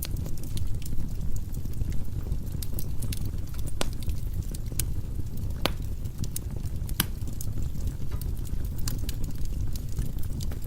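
Firewood burning in a fireplace: a steady low rumble of flame with frequent irregular crackles and pops, a few sharper snaps among them.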